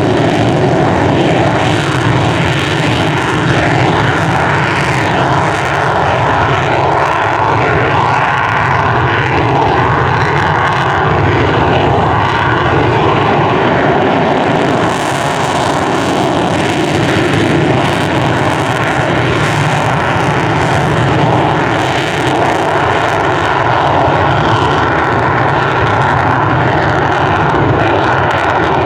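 An F-16 fighter's jet engine running loud and steady at close range for the whole stretch, a dense roar with a faint high whine that wavers slightly.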